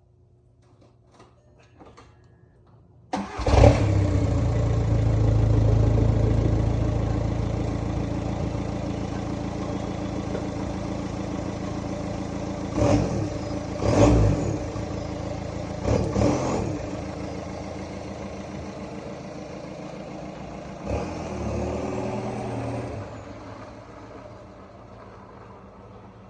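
Volkswagen Mk V Jetta TDI's four-cylinder turbodiesel starting about three seconds in and settling into a loud idle through a straight-piped cat-back exhaust. Three short throttle blips come near the middle, then a longer rev a few seconds later, before it drops back to a quieter idle.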